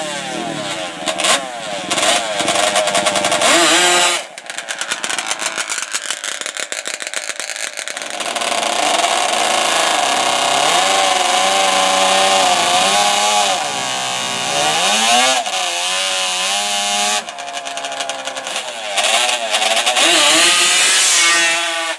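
High-revving ATV engine, with choppy, stuttering blips of the throttle for the first few seconds. After a quieter spell it runs loud and long from about eight seconds in, its pitch climbing and dropping again and again.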